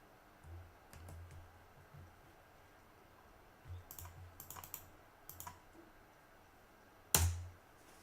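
Computer keyboard being typed on: a few scattered keystrokes, then a quick run of them, and one louder key press near the end.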